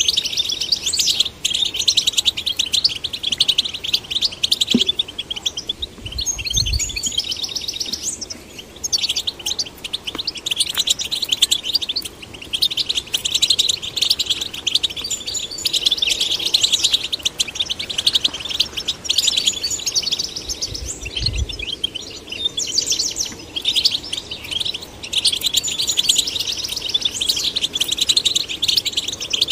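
European goldfinch singing: a fast, unbroken stream of high twittering and trilling notes. Two brief low thumps sound about six and twenty-one seconds in.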